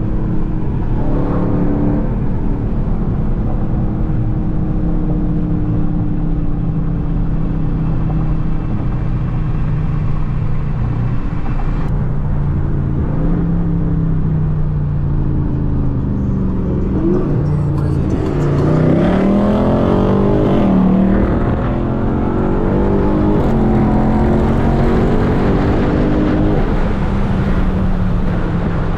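Dodge Charger Scat Pack's V8 engine running at a steady cruise. About two-thirds through it revs up and down, its pitch rising and falling as it gets louder, then it settles back to a steady cruise.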